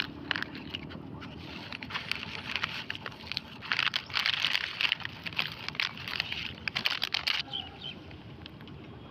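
Plastic rustling and crackling as discarded plastic wrappers and bottles are handled and gathered up, a dense run of quick crinkles for about five seconds, stopping suddenly near the end.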